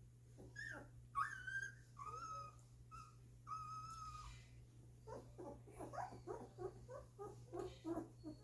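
Two-week-old golden retriever puppies whimpering: several high, drawn-out whines in the first half, then a quick run of short, lower squeaks.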